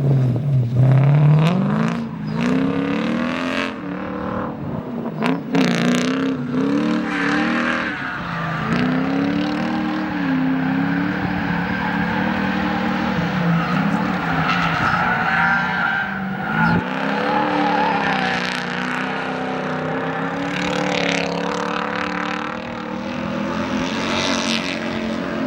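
Lexus IS300 drift car's 4-litre 1UZ Toyota V8 on track, its revs climbing and dropping over and over as the throttle is worked to hold a drift.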